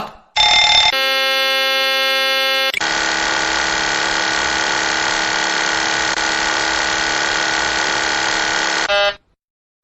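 Airliner cockpit aural warnings without voice: a brief tone, then a steady electronic horn for under two seconds, then a long, harsh, rattling buzz for about six seconds that cuts off abruptly.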